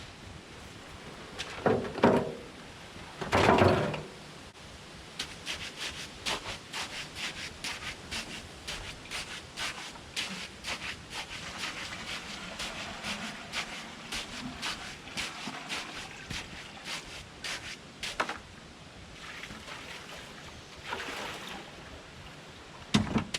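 Short scraping strokes repeated about twice a second, with two longer, louder scrapes in the first few seconds.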